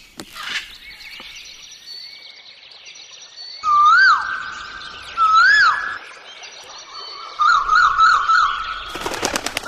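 Birds calling: several layered whistles and chirps. Two loud whistles rise and fall partway through, a warbling trill follows, and a quick run of sharp clicks comes near the end.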